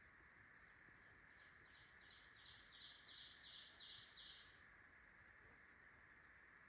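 A songbird sings one song of about ten quick repeated high notes that grow louder, lasting about three seconds, then stops.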